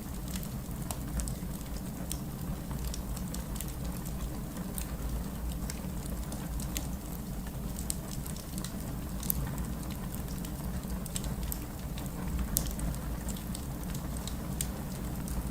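Wood campfire burning with a steady low rush and frequent sharp crackles and pops scattered throughout.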